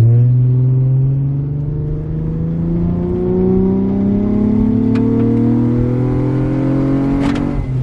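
Car engine pulling under acceleration, its pitch climbing steadily for several seconds. Near the end it drops sharply as the automatic transmission shifts up.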